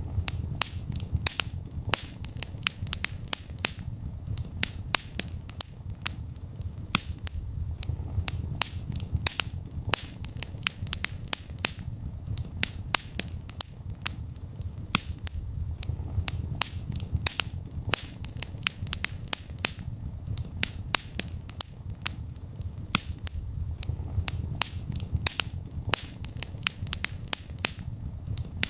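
Wood fire in a fireplace crackling: many sharp pops and snaps at irregular intervals, several a second, over a steady low rumble of burning.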